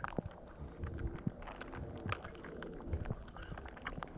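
Water sloshing and lapping in a hot tub, with scattered small clicks and knocks.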